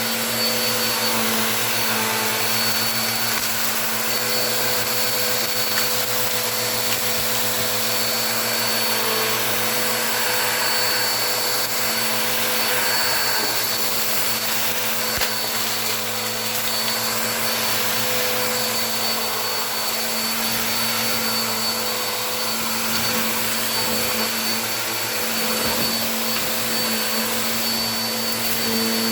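Upright vacuum cleaner running steadily while vacuuming a rug, with its motor's high whine over a lower hum.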